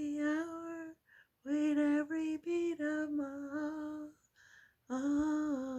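A woman singing unaccompanied in long held notes, in three phrases with short breaths between them.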